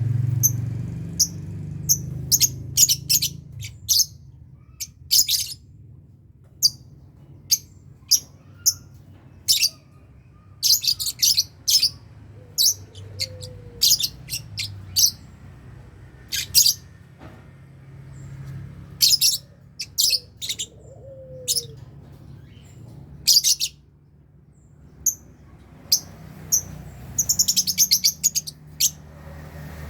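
Lovebirds chirping: short, high, sharp calls at irregular intervals, with a quick run of chirps near the end. A low steady hum lies underneath.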